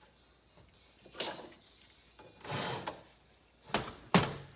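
Metal engine parts being handled during a motorcycle engine teardown: a knock about a second in, a short scrape a little later, then two sharp knocks near the end, the last the loudest.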